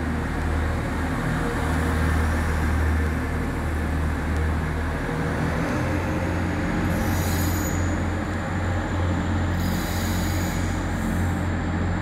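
TransPennine Express train pulling out of the platform, its engines a steady low drone, with two short hisses about seven and ten seconds in.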